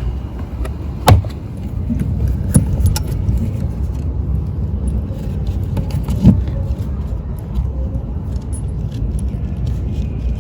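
Metal hardware clinking and knocking as fittings are mounted on the boat: a few sharp knocks, the loudest about a second in, over a steady low rumble.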